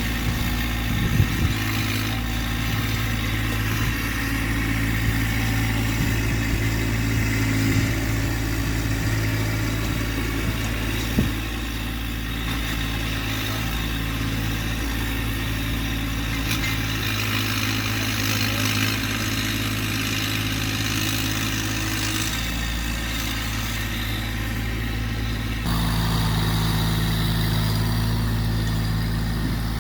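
Massey Ferguson GC1710 sub-compact tractor's diesel engine running steadily, with a couple of brief knocks, one about a second in and one near the middle.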